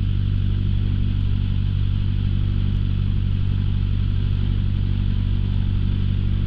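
Light aircraft's piston engine running steadily at low power on the ground, heard from inside the cockpit, while the engine warms up.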